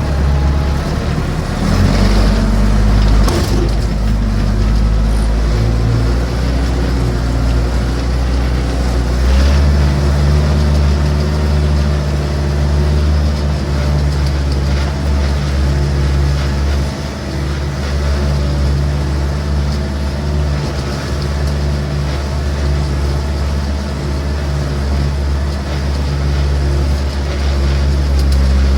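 Massey Ferguson BX 50 backhoe's engine working hard under load as the machine climbs a steep slope, its pitch stepping up twice in the first ten seconds, with a few sharp knocks about two to three and a half seconds in.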